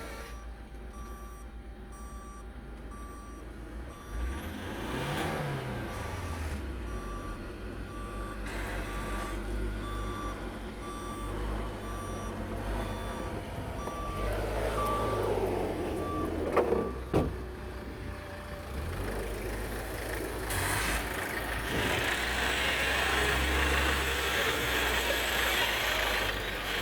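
Toyota 2AD-FTV 2.2-litre four-cylinder diesel running on an engine test, blipped up and back down about five seconds in and again around the middle. Two sharp knocks follow the second rev. An evenly spaced beep repeats through the first half.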